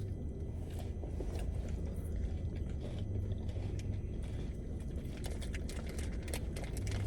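Steady low rumble of a car's cabin while driving, with a faint low hum and a few small clicks.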